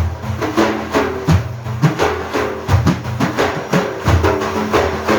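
Drums of a devotional praise ensemble beating a quick, steady rhythm without singing.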